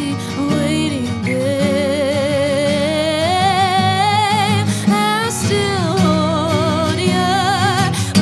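A woman singing an original song with wide vibrato, holding long notes, over guitar accompaniment.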